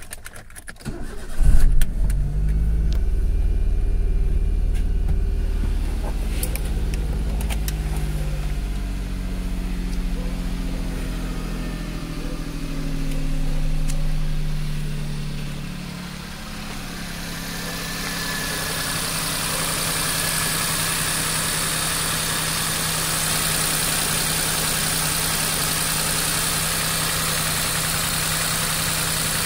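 Suzuki hatchback's petrol engine catching after brief cranking about a second and a half in, then running at a steady idle. Around the middle the engine speed rises and falls once. In the last third it settles to a steady idle with a hiss over it.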